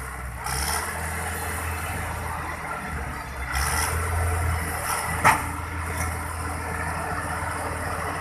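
Heavy harvester engine running steadily under load while it tows tractors, getting louder a few seconds in. A sharp bang about five seconds in.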